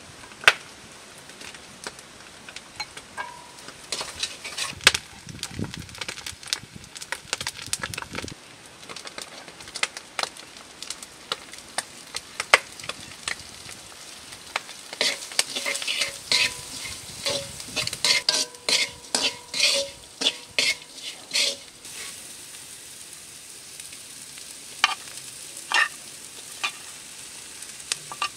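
Vegetables frying and sizzling in a large iron wok, with many sharp clicks, taps and scrapes of a metal spoon on the wok and a clay plate. A busier run of tapping comes past the middle, some of the taps ringing briefly.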